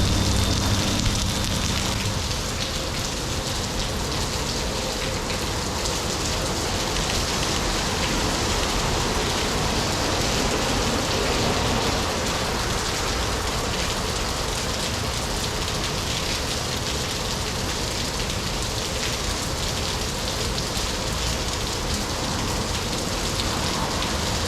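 Steady rain falling, a dense even hiss that holds at the same level throughout.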